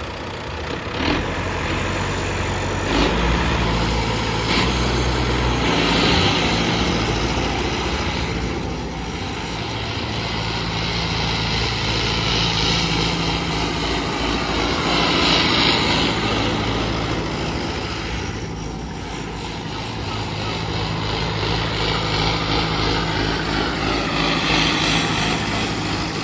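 Turbocharged tractor diesel engine running hard, its sound swelling and easing several times as the load and revs vary.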